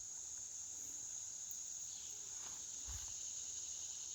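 Steady high-pitched chorus of insects such as crickets, with a faint low thump about three seconds in.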